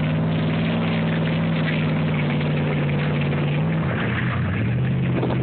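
Truck engine running at steady high revs, then dropping to lower revs about four seconds in.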